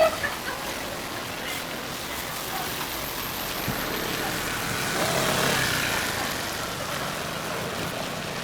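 Steady rain on a city street as a car passes on the wet road. The tyre hiss swells to a peak about five seconds in, then fades.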